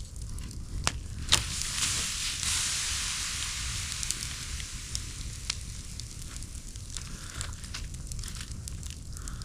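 Campfire crackling and hissing, with a few sharp pops; the hiss swells a couple of seconds in.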